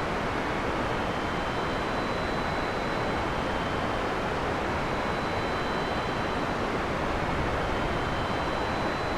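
Heavy rain falling steadily in a forest: a dense, even hiss with no thunder.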